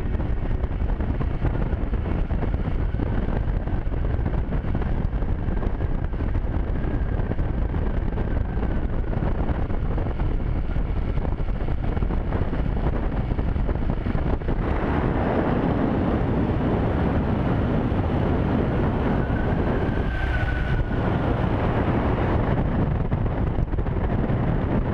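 Motorcycle running at road speed, with steady wind noise buffeting the microphone; the rush of wind grows louder for several seconds past the middle.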